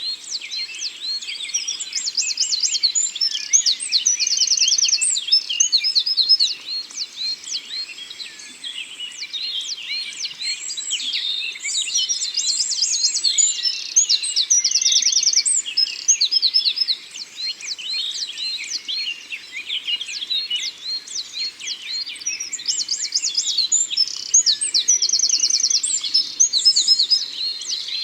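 Several songbirds singing at once in a forest, a dense chorus of chirps, quick trills and rising whistles that never stops.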